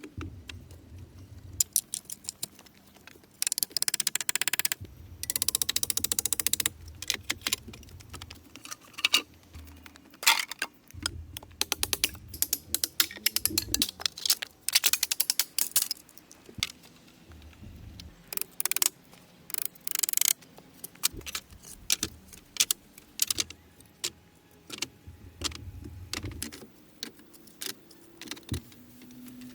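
Close handling and work sounds: many quick clicks, taps and small rattles, with two longer rasping or rustling stretches a few seconds in and occasional dull thumps.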